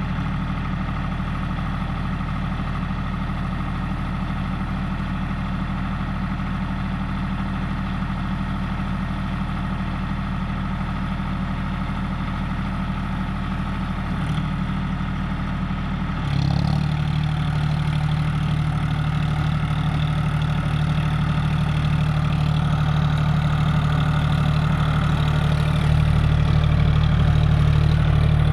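John Deere 5050D tractor's three-cylinder diesel engine running steadily at idle. About sixteen seconds in, the engine speed steps up and it runs louder from then on.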